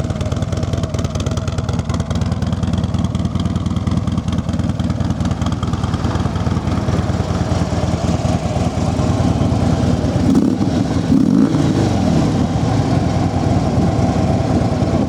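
Harley-Davidson Street Glide Special's 103 cubic-inch V-twin running through its factory exhaust, idling steadily. About ten seconds in it is revved up and back down a couple of times.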